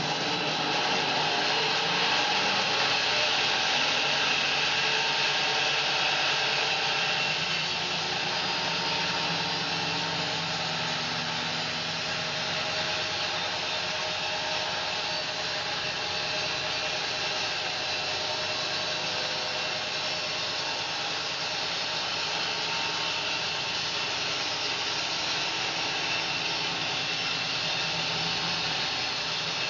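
Home-built bandsaw sawmill running steadily, its blade sawing through a fir log, a little quieter after about seven seconds.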